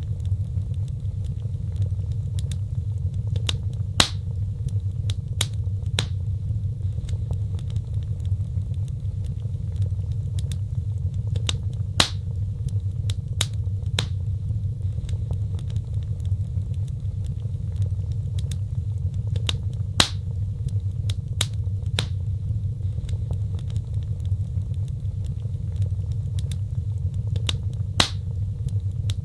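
Wood fire burning in a fireplace: a steady low rumble of flame with scattered sharp crackles and four louder pops about eight seconds apart.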